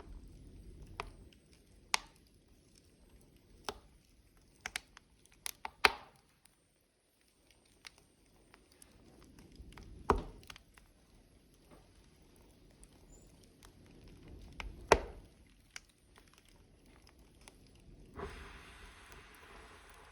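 Burning logs in a wood fire, crackling with irregular sharp pops, a few of them loud, over a faint low rumble of flame. A short burst of hissing comes near the end.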